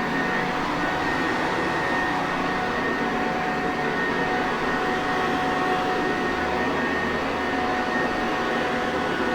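Sanitaire Perfect vacuum cleaner running steadily: an even rush of motor and airflow noise with a faint constant whine.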